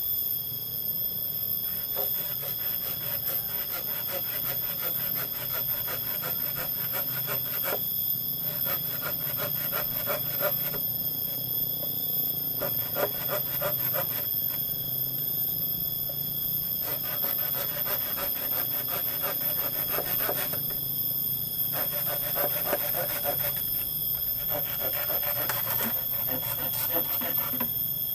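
Steady high-pitched insect chorus, several shrill tones held at once. Stretches of rapid crackling or scraping come and go every few seconds over it.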